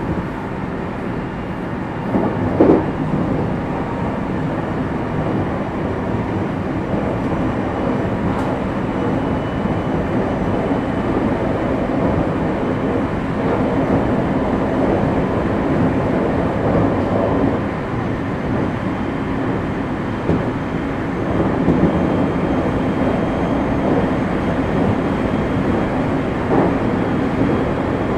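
Commuter train running along the line: a steady rumble of wheels on rails heard from the front of the train. There is a louder knock about three seconds in and two more near the end.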